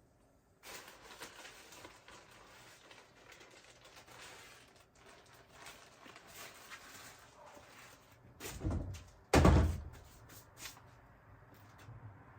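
Handling and rustling noises, then two heavy knocks about a second apart near the end, the second loudest, like a cupboard or door being shut.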